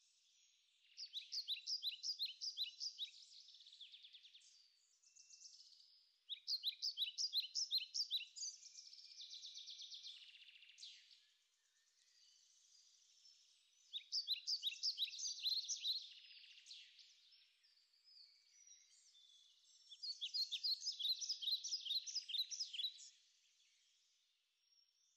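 A songbird singing faintly: four bouts of rapid repeated high notes, each lasting two to three seconds, several seconds apart.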